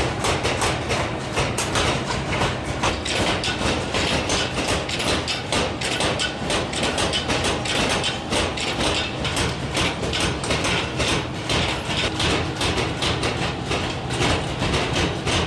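Mechanical hammer in a pliers forging shop striking metal in a rapid, even rhythm, several blows a second, over the steady hum of machinery.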